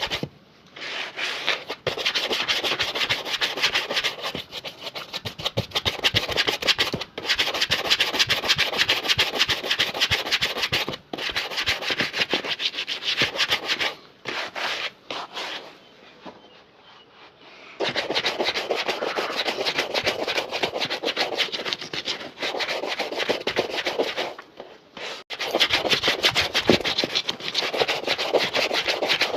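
Rapid back-and-forth rubbing on a shoe during a shoe shine, in dense quick strokes. The strokes stop briefly a few times, with a longer quieter break about halfway through.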